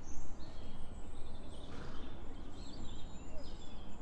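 Small birds chirping in short, high calls over a steady low rumble.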